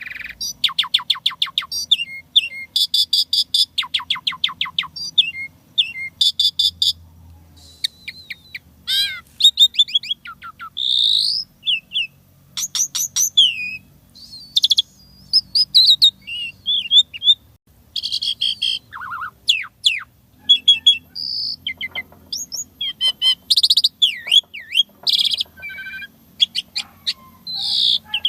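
Asian pied starling (jalak suren) singing a varied song full of filler imitations: fast rattling trains of repeated notes, slurred whistles rising and falling, and short chattering calls, one after another without pause.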